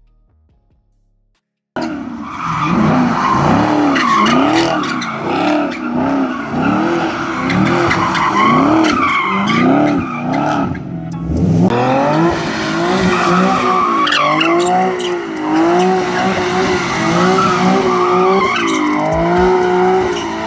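A car drifting: engine revving and tyres squealing, the pitch swinging up and down, starting about two seconds in after near silence, with a short break about halfway through.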